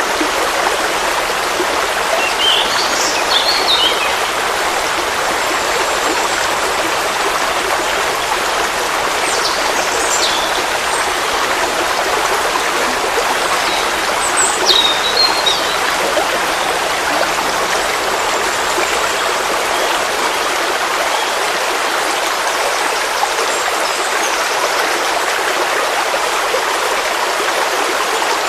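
Forest stream flowing steadily over stones, a continuous even rush of water. A few short high bird chirps break through about 3 seconds in, again around 10 seconds, and around 15 seconds.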